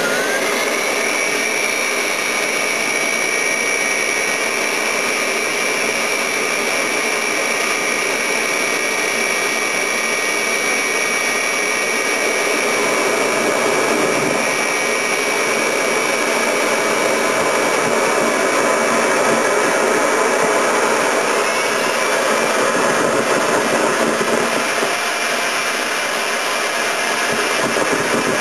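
Homemade model turbojet engine running steadily at high speed, about 70,000 rpm, with a loud rushing roar and a high steady whine. The whine finishes climbing in pitch in the first second, and shifts slightly about three-quarters of the way through.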